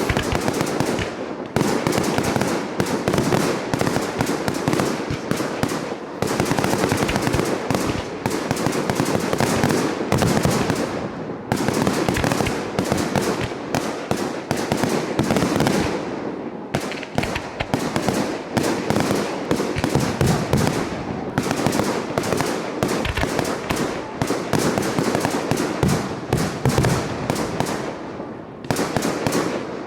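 Professional fireworks display: a dense, continuous barrage of shell bursts and crackle, with brief dips every few seconds.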